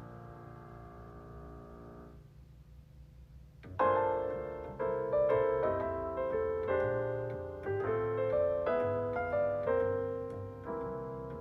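Background piano music: a held chord fades away, and after a short lull a new phrase of struck piano chords starts about four seconds in.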